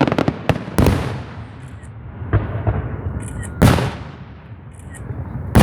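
Fireworks exploding: a quick run of sharp cracks in the first second, then two loud bangs about two seconds apart, each trailing off slowly.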